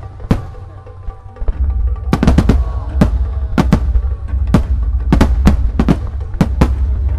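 Aerial firework shells bursting, a couple of sharp bangs at the start, then after a brief lull a rapid barrage of bangs about four a second over a continuous low rumble.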